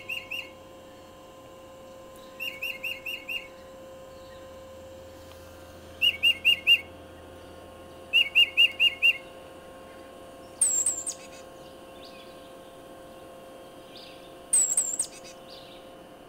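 Recorded tufted titmouse song played back from a speaker: four phrases of four or five quick whistled notes, then two louder bursts of very high, falling notes about four seconds apart.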